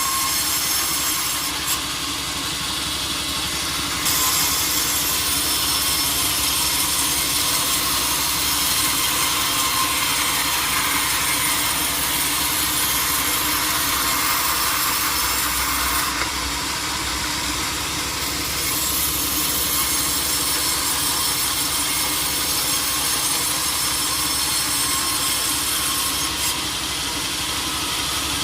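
Sawmill saw cutting through a teak log: a loud, steady, hissing cut over a constant machine hum, with abrupt changes a few times.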